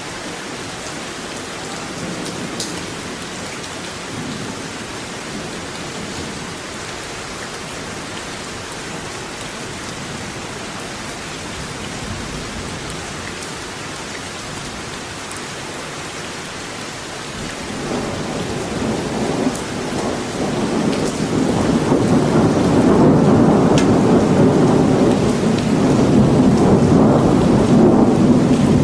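Steady rain falling, with scattered drop ticks. About two-thirds of the way through, a deep rumble of thunder builds up over several seconds and stays loud to the end.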